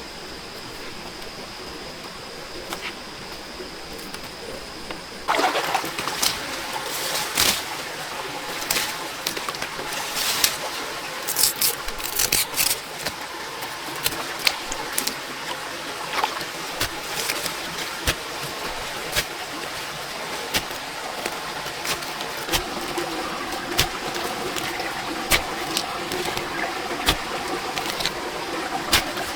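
Steady water or rain hiss with a high, steady whine over it for the first five seconds; then, about five seconds in, irregular knocks, taps and clicks start and keep on over the hiss.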